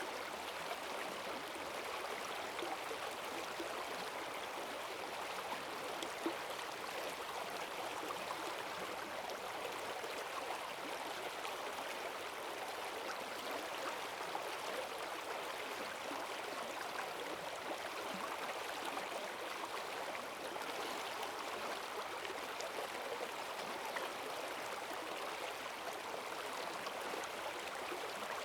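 Forest stream swollen with rainwater, rushing and gurgling steadily over its bed, with a few faint splashes and ticks.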